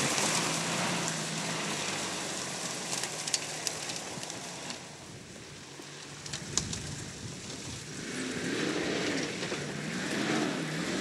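Four-wheel-drive SUV engine running on a muddy dirt track, revving up and down near the end as it works along the ruts. A couple of sharp knocks in the middle.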